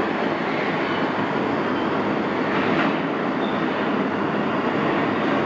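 Pullman-Standard R46 subway train running along the station track: a loud, steady rumble of wheels on rail, with no break in it.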